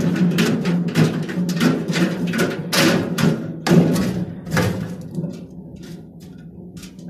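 Old Beko washing machine being wrecked: loud, rapid banging several times a second over a steady low hum. The banging thins out and fades after about five seconds in.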